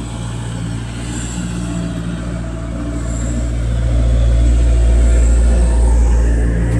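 Bobcat 763 skid-steer loader's diesel engine running with a steady low hum, growing louder about halfway through as it is worked harder.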